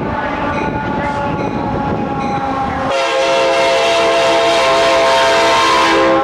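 Passenger train running on the rails with a steady rumble. About halfway through, the locomotive's air horn sounds a long, loud chord of several tones.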